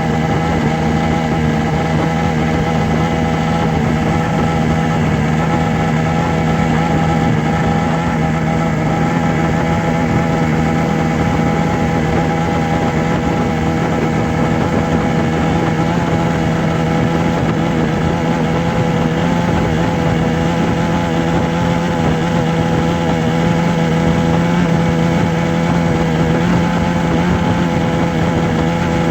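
A steady, unchanging engine-like drone: a strong low hum with many higher steady tones above it, holding the same pitch and level throughout.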